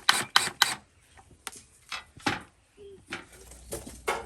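A quick run of four sharp knocks in the first second, then scattered single clicks and knocks.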